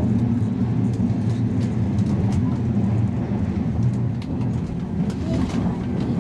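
Cabin running noise of a Toyama Chihō Railway 10030 series electric train (ex-Keihan 3000 series) travelling at speed: a steady low rumble of wheels on rail and running gear, with a few faint clicks over it.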